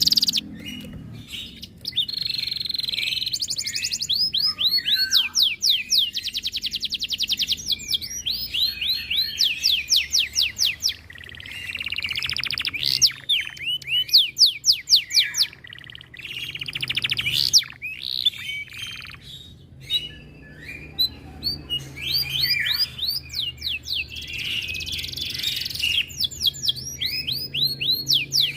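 Domestic canary singing a long song of fast trills and rolls, made of rapidly repeated notes and quick rising and falling sweeps, with brief pauses between phrases. It is the full, persistent song of a male in high breeding condition.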